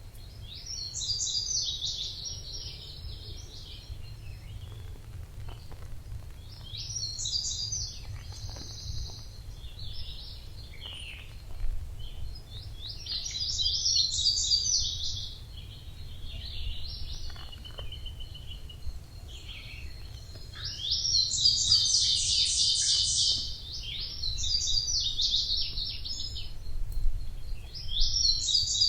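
Songbirds singing in a forest: a series of quick high twittering song phrases, each one to two seconds long, coming every few seconds, over a steady low rumble and a faint thin high hum.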